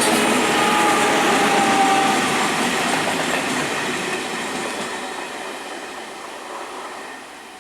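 A passing train running over the rails, loud for the first two seconds or so, then fading steadily as it moves away.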